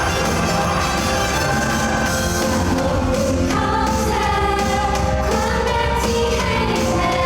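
Pop song played loud over stage speakers, with a girl's singing voice coming in about halfway through.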